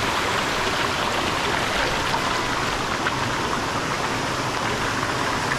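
Rushing water of a rainforest stream, a steady even rush with no breaks.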